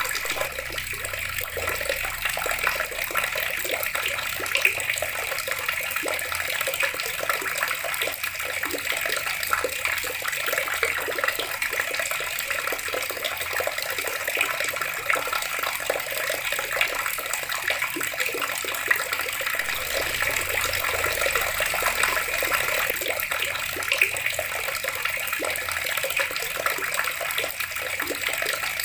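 Water running steadily from a tap and splashing below it, a continuous even rush.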